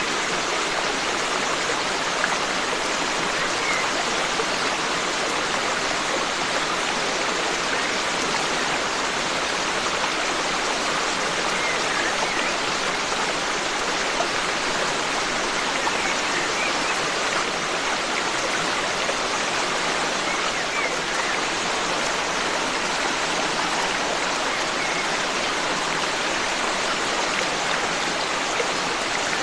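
Forest stream flowing steadily, a continuous even rush of water, with a few faint bird chirps now and then.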